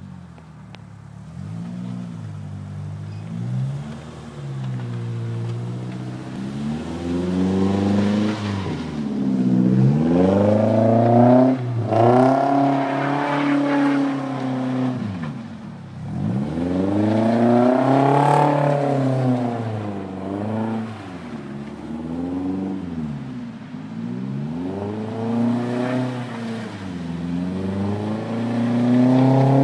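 1990 Nissan 240SX's 2.4-litre four-cylinder engine, breathing through an aftermarket Magnaflow exhaust and K&N intake, revving up and dropping back again and again as the car slides in circles on snow. The engine note climbs and falls in pitch several times, loudest in the long pulls about ten, eighteen and twenty-nine seconds in.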